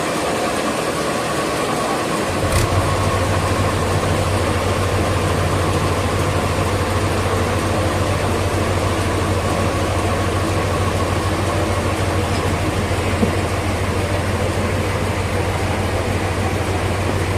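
Machinery running steadily in a sawmill, with a low engine or motor hum that comes on about two seconds in and stays steady, over a constant hiss of mill noise.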